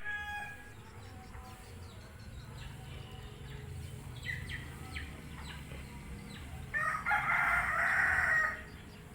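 A rooster crows once, a loud call of nearly two seconds near the end, with shorter bird chirps before it over a steady low rumble.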